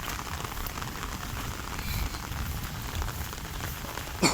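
Heavy rain falling steadily in a downpour, with one sharp knock about four seconds in.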